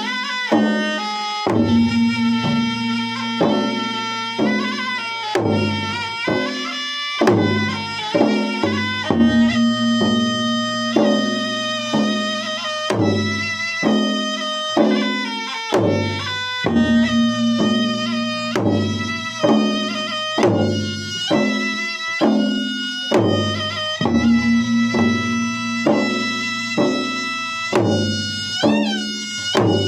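Traditional Bugis-Makassar wedding drum (gendang) music: drums beat a steady rhythm, about one stroke a second, under a continuous melody line.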